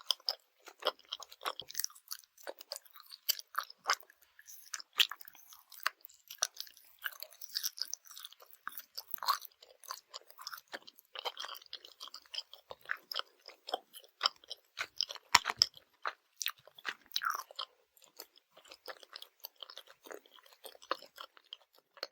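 Close-miked chewing of Swedish gummy candy: wet, sticky smacks and irregular mouth clicks, with a few louder bites along the way.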